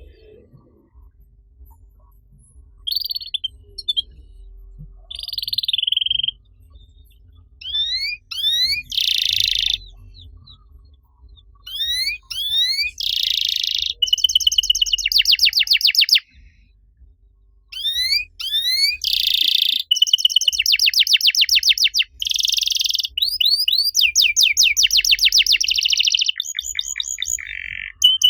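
Domestic canary singing: a song of fast high trills, rapid repeated rising sweeps and short held whistled notes, sparse at first and nearly continuous from about halfway in.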